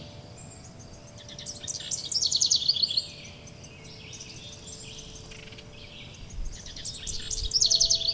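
Songbirds singing. Two fast, falling trills come about two seconds in and again near the end, over repeated short, high chirps.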